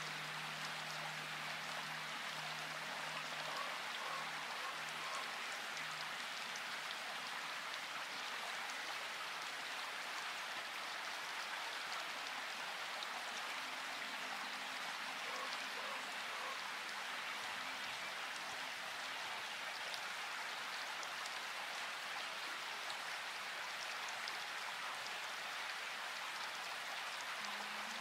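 Steady rain hiss, the dense patter of many raindrops. Faint low sustained tones of soft background music sound under it at the start, again in the middle and near the end.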